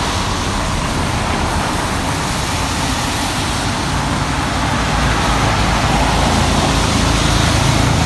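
Road traffic on a wet street: a steady hiss of tyres and spray with a vehicle engine's low hum that grows stronger in the second half.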